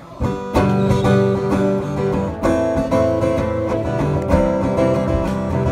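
Acoustic guitar strumming chords, the instrumental introduction before the singing comes in; it starts about a quarter second in.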